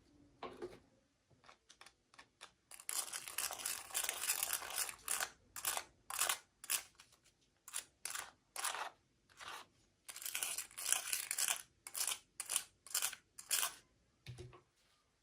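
Toy packaging being torn open and crinkled by hand: a run of short rustling, tearing crackles, denser in two spells about three and ten seconds in.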